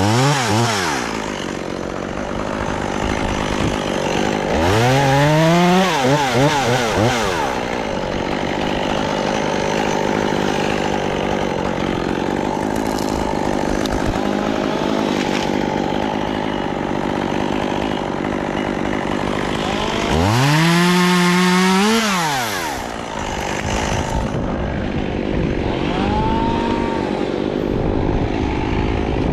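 Chainsaw engine revved up three times, its pitch climbing high and then falling back, and running more slowly in between.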